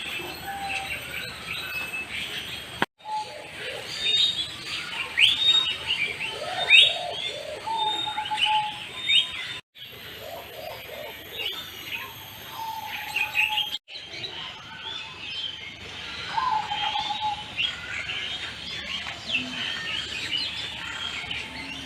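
Many birds chirping and calling together: dense short chirps and whistles, with a few lower whistled notes. The sound breaks off abruptly three times, at about 3, 10 and 14 seconds in.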